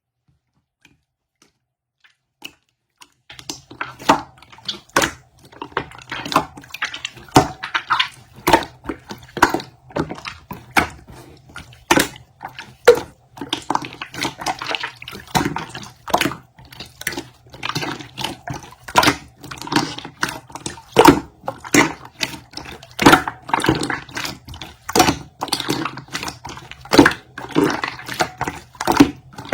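Rapid, irregular clicks and taps, several a second, over a steady low hum; both start about three seconds in after near silence.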